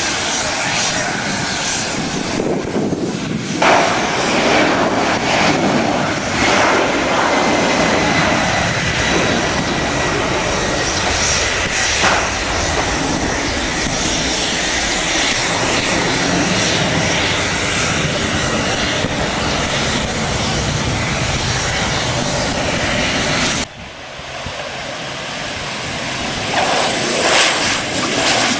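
Airliner engines running loud and steady, with a faint whine that slowly falls in pitch. The sound drops away suddenly near the end, then builds back up.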